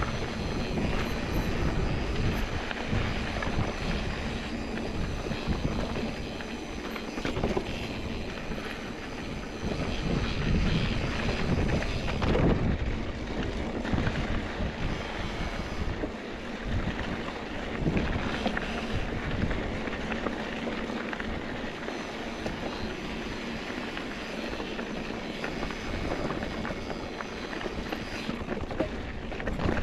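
Mountain bike ride on a dirt trail: steady wind rush on the microphone and tyre rumble over the ground, with scattered knocks and rattles from bumps, a stronger one about halfway through.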